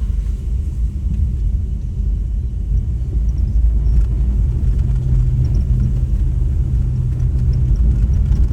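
Steady low rumble of a vehicle travelling along a road, engine and road noise, with a steady engine hum for a few seconds in the middle.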